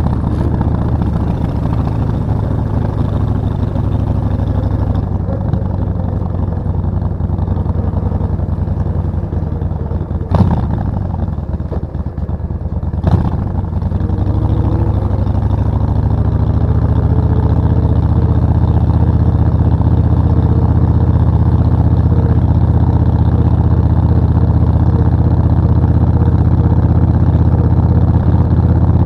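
Suzuki VS1400 Intruder's V-twin engine running under way, with two sharp knocks about ten and thirteen seconds in. After about fourteen seconds it accelerates, rising in pitch and getting louder, then holds a steady higher speed.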